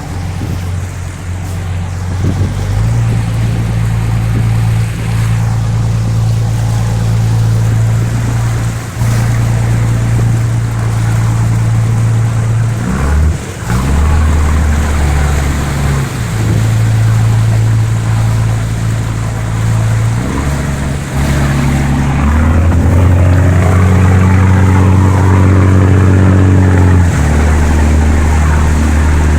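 A fishing boat's diesel engine running, a loud low drone that steps up and down in pitch several times, with sea and wind noise over it.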